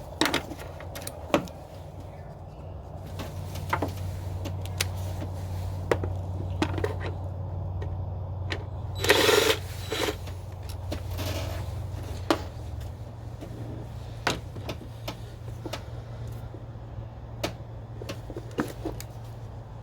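Scattered plastic clicks and light knocks of hands working an ignition coil's electrical connector loose in the engine bay, with a short rustling scrape about nine seconds in, over a steady low hum.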